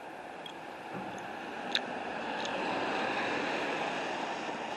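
A vehicle passing on the street: steady tyre and road noise swells from about a second in and fades near the end, with one sharp click about two seconds in.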